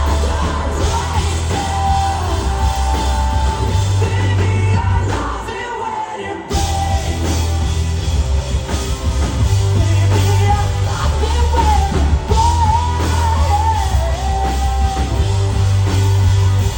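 Live rock band with a lead singer, heavy bass and drums. The bass drops out briefly about six seconds in, then the full band comes back in.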